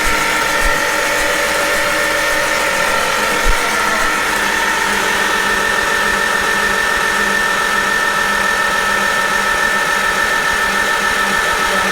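Rebuilt Farmall Super M engine being cranked over with its spark plugs out, spinning freely without compression to build oil pressure. A steady mechanical whir with a high whine running over it.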